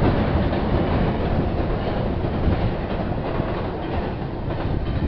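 CN intermodal freight train rolling across a high steel railway trestle, a steady rail noise that slowly fades as the last container cars cross.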